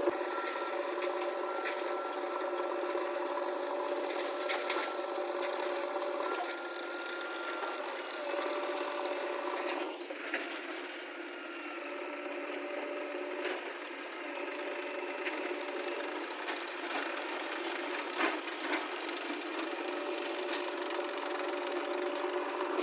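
Diesel engine of a JCB 3DX backhoe loader running steadily, its pitch shifting a few times as the machine works, with scattered clicks and knocks.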